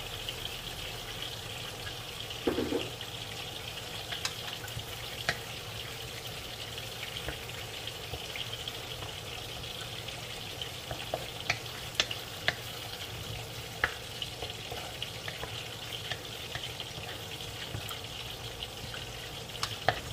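Scallops, tomatoes and onions sautéing in an aluminium wok: a steady sizzle, with a wooden spatula scraping and clicking against the pan now and then. A dull knock sounds about two and a half seconds in.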